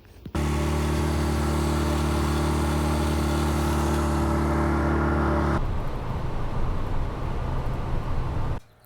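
A vehicle engine running at a steady speed, its tone holding level. About five and a half seconds in it gives way to a rougher, uneven rumble with road noise, which cuts off suddenly near the end.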